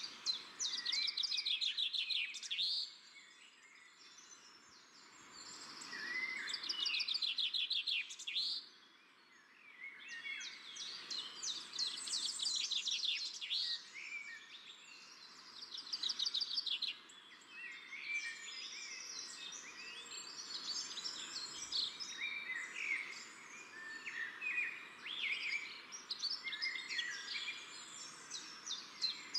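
Songbirds singing: a busy chorus of chirps and rapid trills, with a couple of brief lulls.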